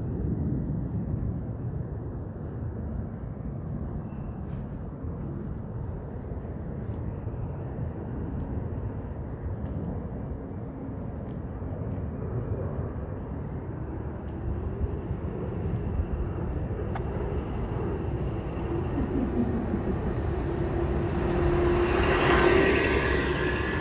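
Boeing 767-300 freighter's twin jet engines on take-off climb-out: a steady, low rumble that slowly grows louder. It peaks about 22 s in as a loud roar with a steady whining tone as the jet passes closest, then begins to ease.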